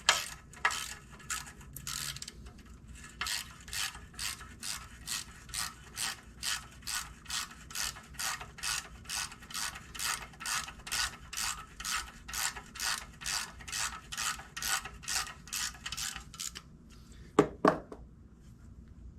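Hand ratchet wrench clicking in a steady rhythm, about two to three clicks a second, as a bolt is run in. Two sharp knocks near the end.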